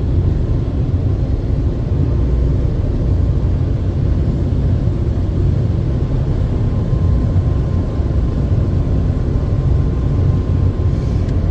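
Ryko Softgloss MAXX 5 soft-touch car wash running: a steady low rumble, with a faint steady whine over it.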